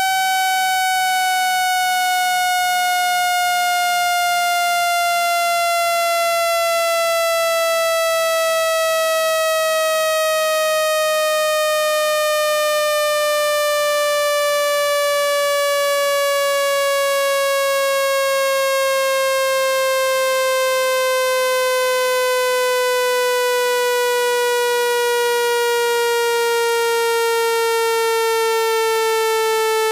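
Synthesized water-eject speaker-cleaning tone: one steady, buzzy electronic tone full of overtones, slowly falling in pitch. It is played at full volume to vibrate trapped water out of a phone's speaker.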